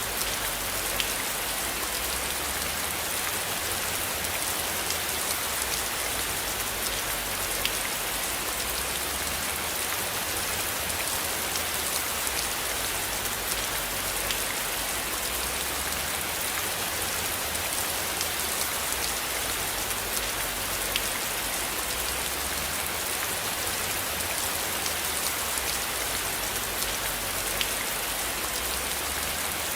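Steady rain falling, a dense even hiss with the occasional sharper tick of a single drop.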